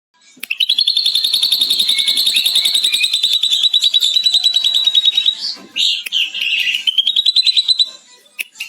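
Ashy drongo singing a long, rapid chattering trill copied from a lovebird's 'ngekek', lasting about five seconds, then a few varied notes and a second, shorter trill.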